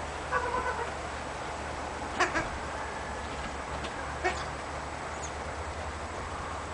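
Domestic poultry calling: a short run of pitched calls about half a second in. Two sharp clicks follow, a couple of seconds apart, over a steady low hum.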